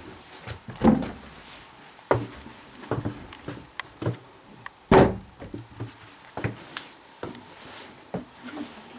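Irregular knocks and thumps on wood, the loudest about a second in and about five seconds in, with lighter clicks between.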